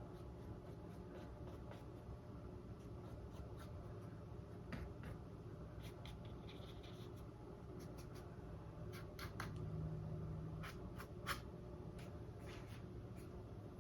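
Faint scratching of a paintbrush working acrylic paint on a stretched canvas, with a few light clicks and taps, over a low steady hum.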